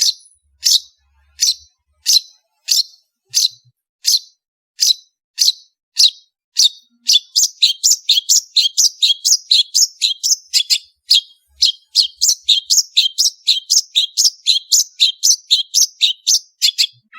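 Long-tailed shrike singing: sharp high notes repeated about every 0.7 seconds, then about seven seconds in speeding up into a fast run of three or four notes a second.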